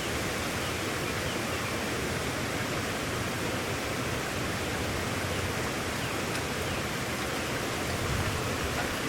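Steady, dense hiss of a heavy rain storm, even and unbroken.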